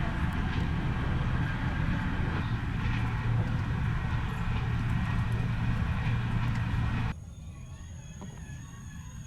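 TGV Lyria high-speed train running at speed, heard from inside the carriage as a steady low rumble. It cuts off abruptly about seven seconds in, leaving a much quieter background with faint wavering tones.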